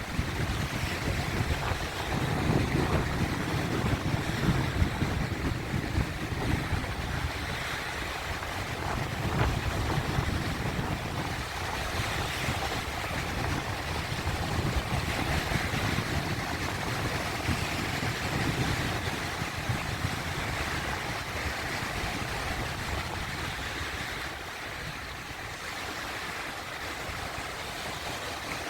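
Sea waves washing in and breaking among rocks, a continuous surging rush that swells and eases in slow waves and settles somewhat quieter near the end.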